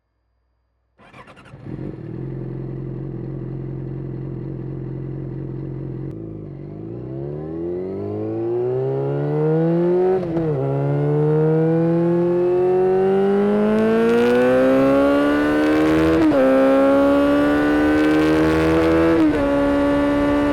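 Yamaha FZ6N inline-four with a Two Brothers aftermarket exhaust, running steadily, then accelerating hard through the gears. The pitch climbs and drops suddenly at three upshifts, about 10, 16 and 19 seconds in.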